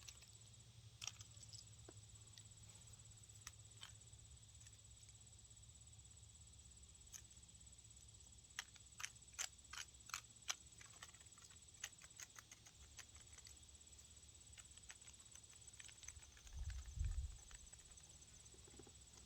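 Near silence with faint, scattered clicks and ticks, most of them in a cluster about halfway through, and a brief low rumble near the end.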